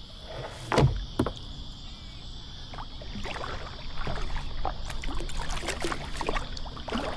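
Kayak being set off and paddled: two knocks against the hull about a second in, then paddle splashes and water sloshing, over a steady high insect drone.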